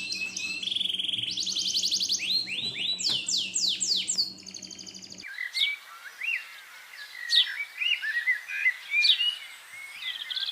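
Caged budgerigars and lovebirds chirping and chattering, with fast trills and sweeping whistles over a steady low hum. About five seconds in, the hum cuts off, leaving quicker, sharper chirps.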